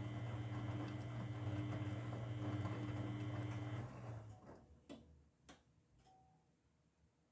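Grundig washing machine's drum motor running with a steady hum, then winding down and stopping a little over halfway through. A few sharp clicks follow as the machine pauses.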